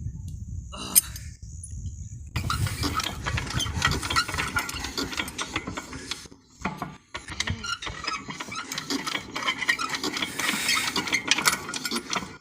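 Diesel water pump engine being hand-cranked to start, a rapid metallic clattering and clicking that begins about two seconds in and pauses briefly about halfway through.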